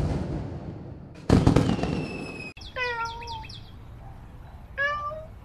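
Two loud noisy bursts, each dying away over about a second, then a cat meowing twice: a longer meow a little before the middle and a short one near the end.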